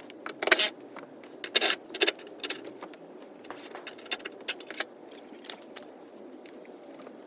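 Metal tools or parts clinking and scraping: two or three short rattling scrapes in the first two seconds, then scattered light clicks and taps.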